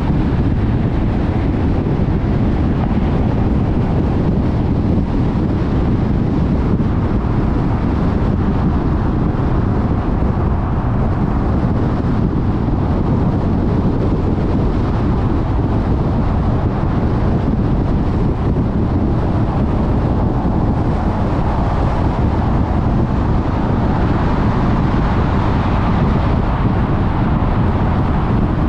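Car driving steadily at freeway speed: a constant low road and tyre noise with wind rush.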